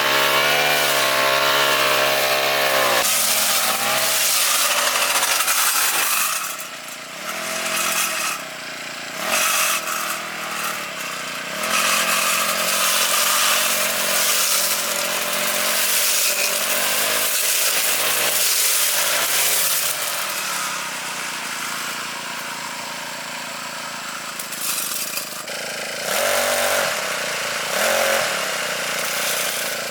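Small petrol engine of a grass cutter running hard. Its speed rises and falls several times as the throttle is worked.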